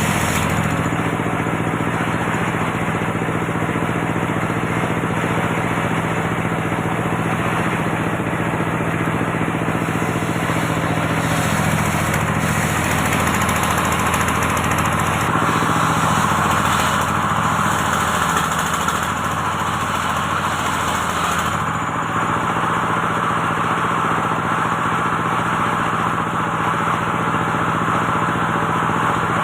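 Engine-driven antique circular saw running steadily. For several seconds in the middle the engine note sags and wavers and a higher rushing sound rises, as the blade takes a cut through teak, then the engine steadies again.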